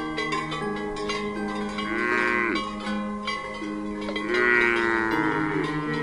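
Cow mooing twice, about two seconds in and again, longer and louder, a little past four seconds; each call drops in pitch at its end. Background music plays throughout.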